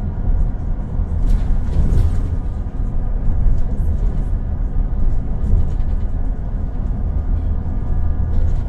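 Volvo B12BLE bus's 12-litre straight-six diesel running under a steady low rumble, with several steady whining tones above it and scattered light rattles.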